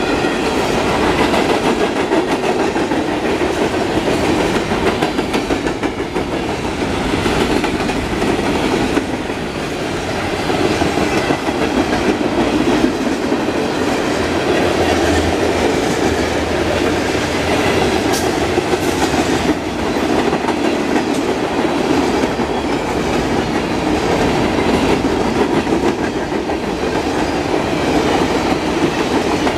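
Freight cars of a long train (covered hoppers and tank cars) rolling past at speed: a steady rumble of steel wheels on rail, broken by many sharp wheel clacks.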